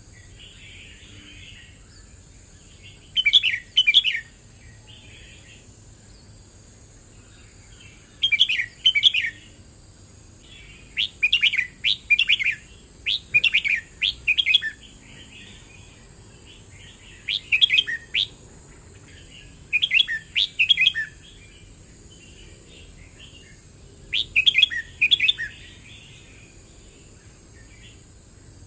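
Red-whiskered bulbul singing: short, bright phrases of rapid whistled notes about a second long, repeated every few seconds, seven times in all, with fainter twittering between phrases.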